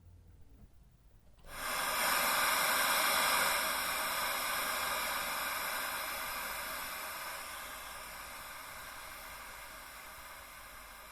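A steady hiss like static or tape noise that starts abruptly about a second and a half in and slowly fades away.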